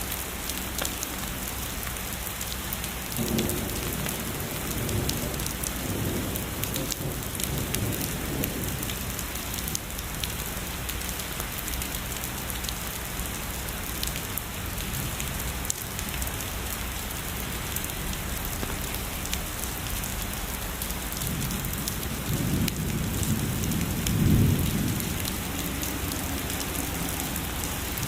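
Steady heavy rain hissing and pattering, with distant thunder rumbling low twice: once a few seconds in, and a stronger roll building near the end.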